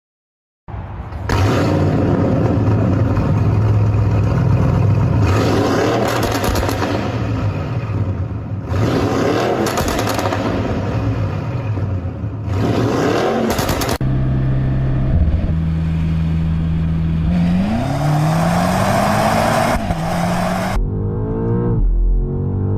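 Car engine revving hard and accelerating, with the pitch rising several times as it climbs through the revs; steadier low engine tones take over in the second half.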